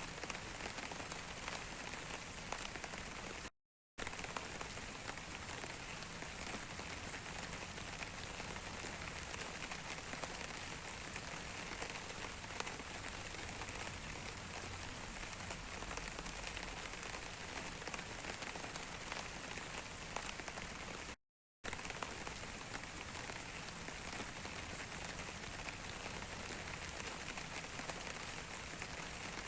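Steady rain falling, an even hiss of many drops. It cuts out to silence twice for a split second.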